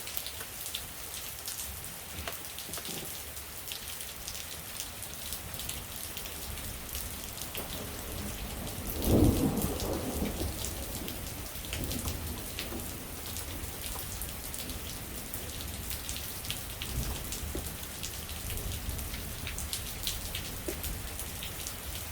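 Steady rain falling on a surface, with many separate drops pattering. About nine seconds in, a roll of thunder rumbles up, the loudest sound, and fades over a couple of seconds.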